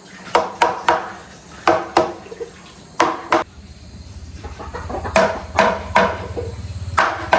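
Hammer knocking on the chair frame being built: about eleven sharp blows in groups of two or three, each with a short ringing tone.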